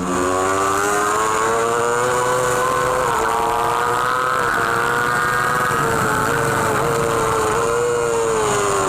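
Superbike racing engine at high revs, heard from the onboard camera: the engine note holds high with a few brief small dips, then falls away near the end. Wind rush over the bike runs underneath it.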